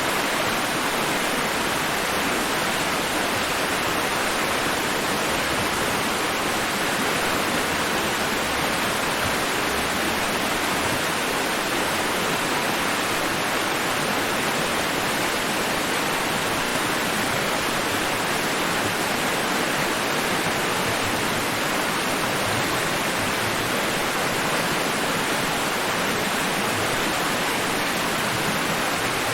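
Steady, unchanging rushing noise that is even from low to high pitch: a white-noise sleep track, with no audible rise and fall of individual waves.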